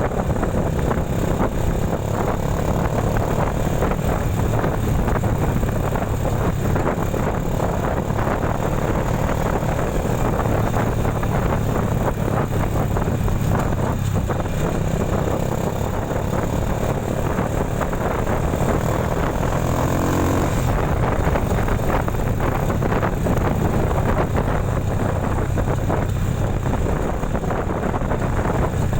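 Vehicle engine running steadily under way, with wind buffeting the microphone and road noise. About twenty seconds in, a brief rising whine.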